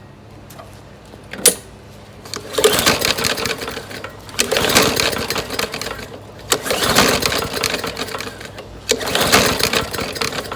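A lawnmower engine is pull-started four times. Each pull whirs the recoil starter rope and turns the engine over briefly without it catching: a mower that will not start after sitting unstarted for five or six years. There is a sharp click just before the first pull.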